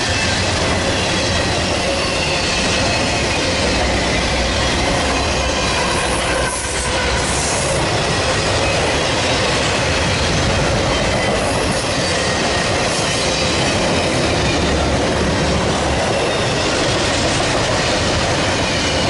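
Railroad cars rolling past close by: a steady rumble of steel wheels on rail, with faint wheel squeal over it.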